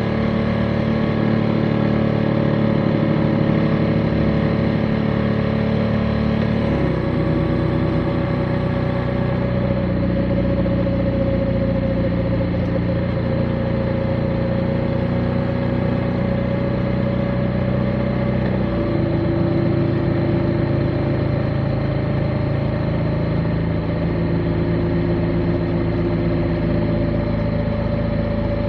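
Motorcycle engine running steadily under way, its note shifting about seven seconds in and again near nineteen seconds, with a steady higher whine above it.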